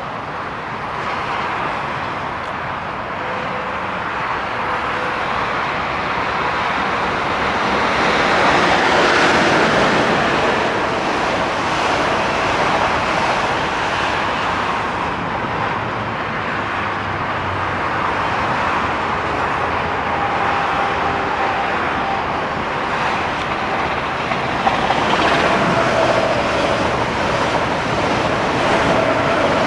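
Electric trains rolling along a multi-track mainline: a steady rush of wheel-and-rail noise that swells about eight seconds in as a train passes close by. A thin steady whine comes in during the second half as a white passenger train approaches and passes.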